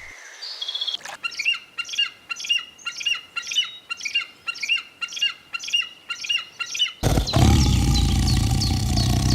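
A bird chirping over and over in an even rhythm, about two calls a second. About seven seconds in it cuts abruptly to a steady low rumble with short, sharp chirps over it.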